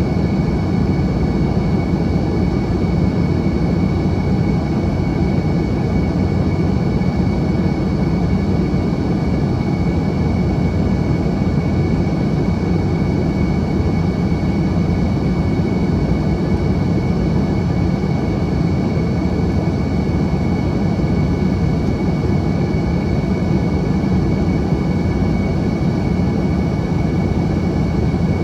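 Steady in-cabin drone of an Embraer ERJ-145 airliner on descent: the rush of air with its rear-mounted Rolls-Royce AE3007 turbofan engines, and a steady high whine running through it.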